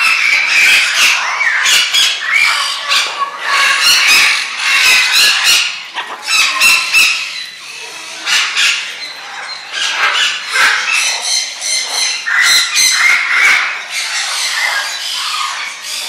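A flock of captive birds squawking and screeching loudly, many calls overlapping without a break.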